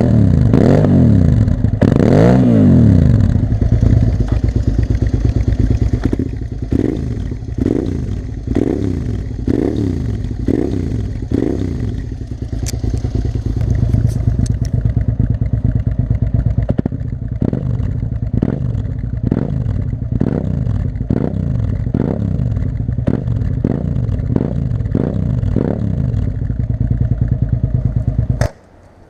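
Suzuki SV650S V-twin with a Delkevic 350 mm stainless steel exhaust being revved. A few big revs come first, then a long run of quick throttle blips, about one a second, each rising and falling back to idle. The sound drops out briefly near the end.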